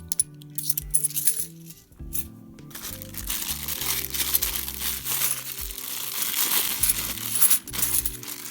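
£2 coins clinking together: a few separate clinks, then from about three seconds in a continuous jingle of many coins moving at once, lasting about five seconds. Background music plays throughout.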